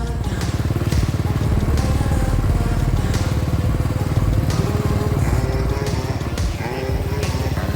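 Motorcycle-with-sidecar engine running at a steady, rapid beat while riding, with a few short knocks along the way.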